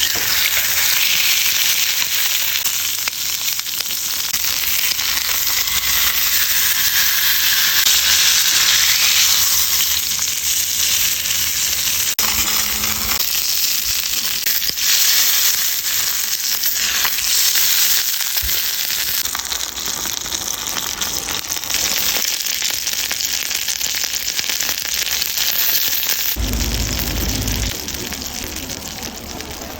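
Bone-in chicken leg sizzling steadily in hot fat over a campfire, with a brief low rumble near the end.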